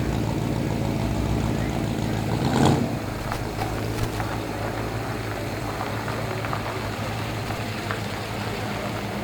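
Car engine idling with a steady low hum, and a brief louder rush of noise about two and a half seconds in.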